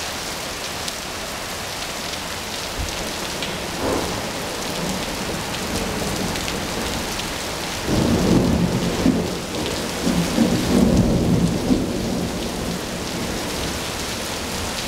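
Steady rain falling, with thunder rumbling loudly for several seconds from about eight seconds in; a smaller swell of thunder comes near four seconds.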